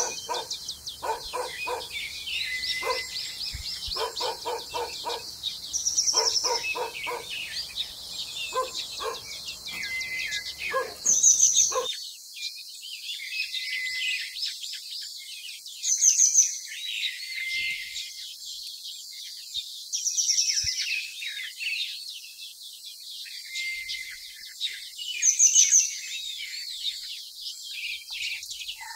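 Birds singing: one short, high song phrase repeats about every five seconds over a steady scatter of other chirps. For about the first twelve seconds a run of lower, evenly repeated calls sounds beneath them, then stops.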